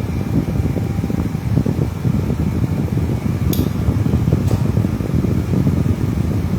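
Loud, steady low-pitched machine noise, dense and unbroken, with two sharp clicks about a second apart near the middle.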